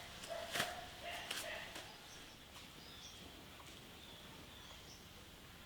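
Faint bird chirps over quiet outdoor ambience, with a couple of sharp knocks in the first two seconds.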